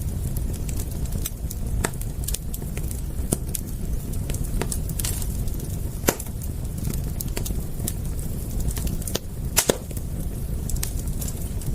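Campfire crackling and popping, with sharp irregular snaps over a steady low rumble of burning; a quick cluster of louder pops comes near the end.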